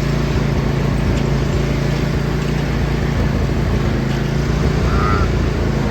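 John Deere LA145 riding lawn tractor's engine running steadily as the tractor is driven.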